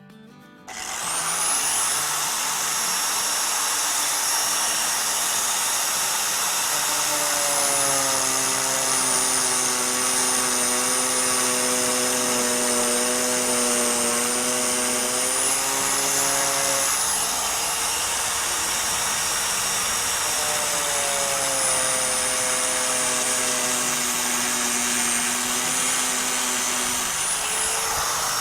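Electric power tool starting up and running steadily, with a high motor whine that sags and recovers twice as the tool is loaded.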